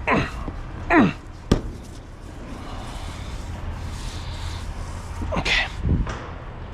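A man's short vocal sounds, each falling in pitch, come near the start, about a second in, and again near the end. A single sharp click comes about one and a half seconds in. A steady low hum runs underneath.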